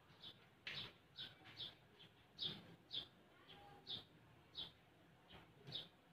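Faint, short bird chirps repeating irregularly, about one every half second.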